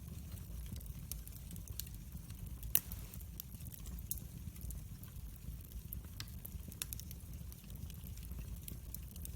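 Fire burning in a fireplace: a steady low rumble of flames with frequent small crackles, and one louder pop near three seconds in.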